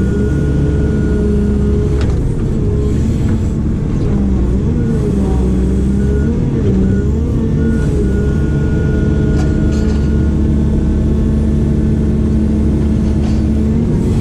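Heavy excavator's diesel engine running steadily under hydraulic load, its pitch wavering up and down as the load changes, with a few light knocks.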